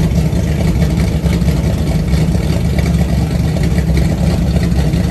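Freshly built 360 stroker V8 running steadily on its first start-up, warming up with the temperature nearing 200 degrees.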